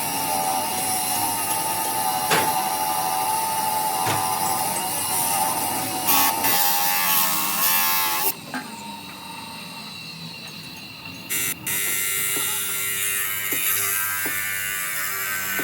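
A motor-driven machine or power tool whining steadily, with a loud hiss over it shortly before it cuts out about eight seconds in. A quieter hiss with a few clicks follows.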